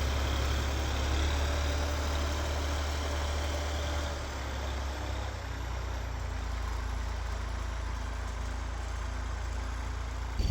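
Massey Ferguson tractor engine running steadily, easing off slightly about four seconds in.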